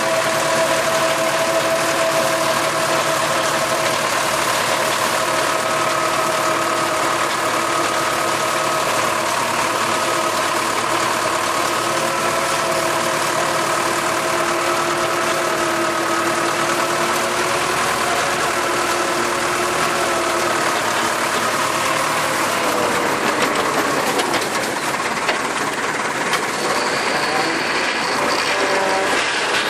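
Farm tractor engine running steadily while driving a rotary tiller; its note sinks about three-quarters of the way through.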